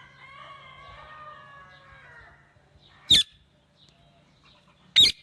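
Parrot calling: a drawn-out pitched call of about two seconds, then two short, very loud shrieks about two seconds apart.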